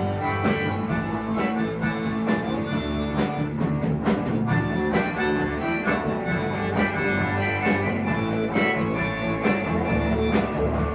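A band playing an instrumental break in a country-rock song: a held, wailing lead line over guitar and bass with a steady drum beat.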